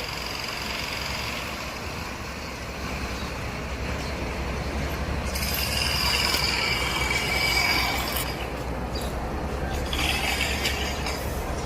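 Heavy truck on the move: a steady low rumble with road noise, and high squealing that comes in about halfway through and again near the end.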